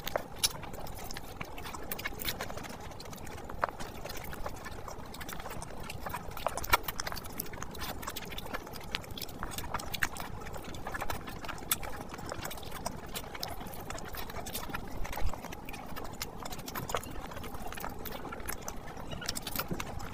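Close-miked wet chewing and mouth smacking of a man eating rice and curry with his hand: a constant stream of small clicks and squelches, with a few sharper smacks.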